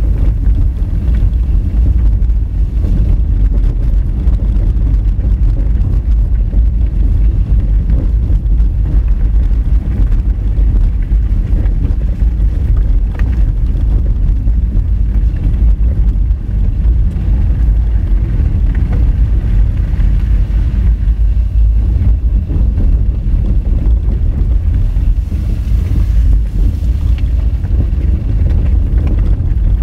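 Steady low rumble of a Honda Fit driving a rough gravel forest road: tyre, road and car noise picked up by a vehicle-mounted camera.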